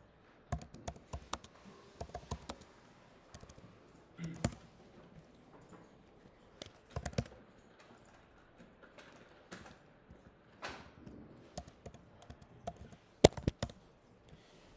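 Typing on a computer keyboard in short, irregular runs of keystrokes, with one sharp, louder keystroke near the end.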